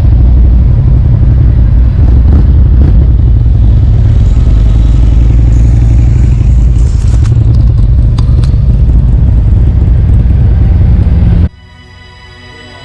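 A motorcycle on the move: loud, steady, low-pitched engine and riding noise. About a second before the end it cuts off abruptly to quieter background music.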